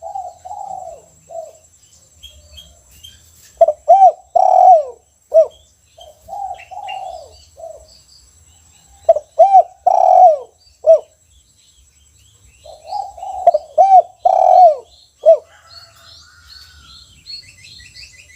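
Spotted dove (tekukur) cooing: about five phrases of several low, arching coos, each phrase separated by a pause of one to two seconds. Small birds chirp faintly and high in the background, more often near the end.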